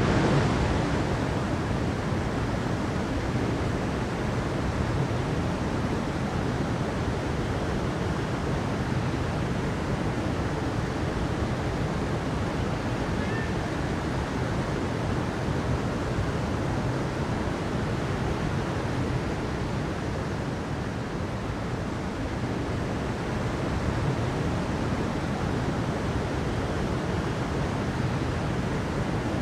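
Steady, unbroken rush of water, heaviest in the low range, with no pauses or distinct splashes.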